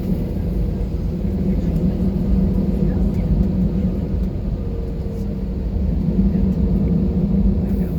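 Steady cabin noise inside an Airbus A320 airliner with its jet engines running at idle: an even low rumble with a steady hum, unchanging in level.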